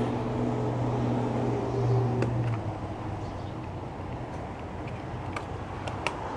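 A motor vehicle's engine running with a steady low hum, which fades out about two and a half seconds in. It leaves a background of traffic noise with a few light clicks, the sharpest near the end.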